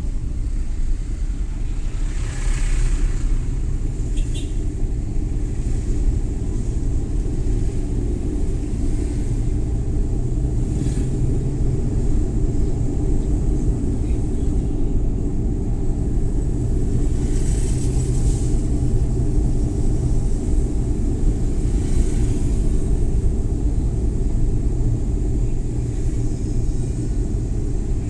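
Suzuki Every Wagon (DA64W) kei van's 660 cc three-cylinder engine and tyres giving a steady low rumble while driving, with a few brief hissing swells from passing traffic or road surface.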